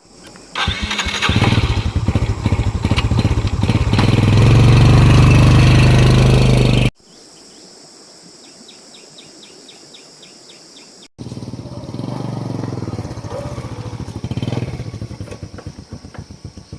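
A small engine running and revving up, cut off abruptly about seven seconds in; after a quieter stretch with a quick series of high chirps, a rougher, softer mechanical sound follows from about eleven seconds in.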